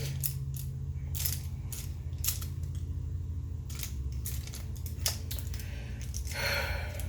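Scattered light clicks and clinks of a makeup brush and palette being handled, as eyeshadow is picked up on the brush, over a steady low hum, with a short breathy swish near the end.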